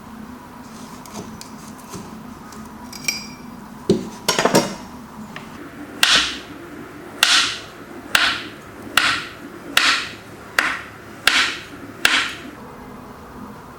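A few loud knocks, then a steady run of eight sharp strikes about one every 0.8 seconds, each with a short fading hiss.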